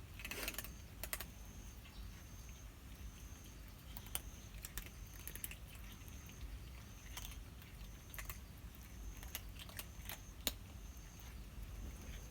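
Cats crunching dry cat food, heard as irregular sharp clicks and crunches. A short high chirp repeats about once a second in the background.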